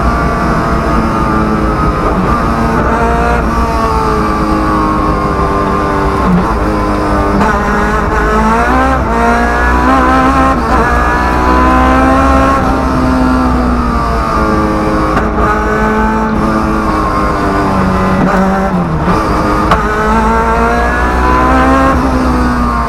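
Rally car engine heard from inside the stripped, roll-caged cabin, loud and revving hard on a special stage: the pitch climbs under acceleration and falls away at each gear change or lift, several times over.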